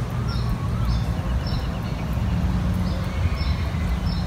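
Steady low outdoor rumble with a bird repeating a short high call about twice a second, pausing briefly midway.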